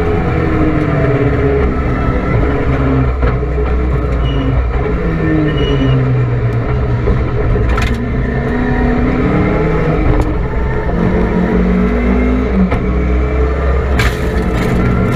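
Rally car engine heard from inside the cabin, revving up and falling away repeatedly as the driver accelerates, shifts and brakes on a stage. A couple of brief sharp cracks cut through, one about halfway and one near the end.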